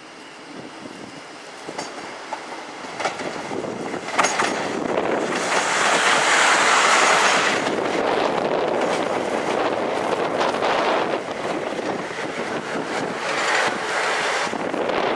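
South West Trains electric multiple unit running in alongside the platform: wheel and rail noise grows over the first few seconds with a few sharp clicks of wheels over rail joints, is loudest and hissiest as the front passes about six seconds in, then settles into a steady rumble as the carriages go by.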